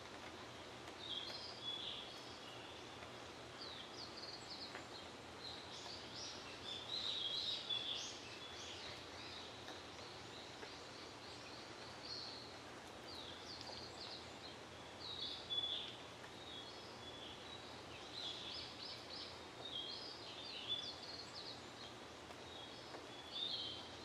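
Small songbirds chirping and singing in short, high phrases that come and go every second or two, over a faint steady outdoor hiss.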